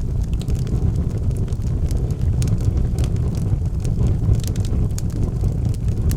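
Logs burning in a fireplace: a steady low rumble of flames with frequent sharp crackles and pops, a cluster of them about four and a half seconds in.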